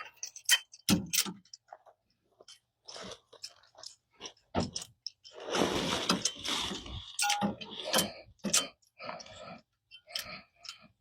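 Irregular clicks, knocks and scrapes of hands and tools working on an engine, with a longer rustling, scraping stretch about halfway through.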